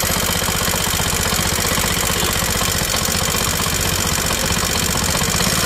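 CNG auto-rickshaw engine, running on its newly fitted carburettor, idling steadily with a fast, even firing beat.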